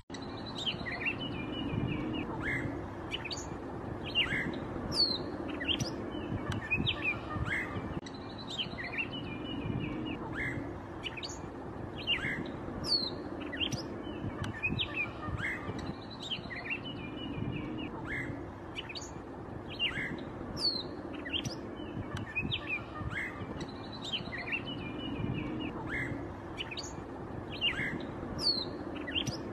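Birdsong: many short chirps and falling whistled calls over a steady background hum. The same sequence of calls repeats about every eight seconds, like a looped recording.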